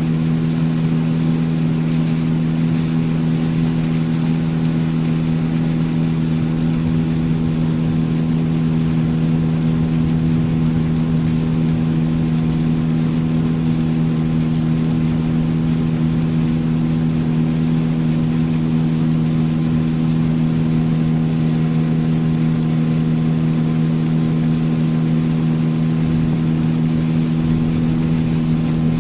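Outboard engine of a motorboat running at a steady cruising speed, its tone holding even, over the rush of water and wind as the boat moves.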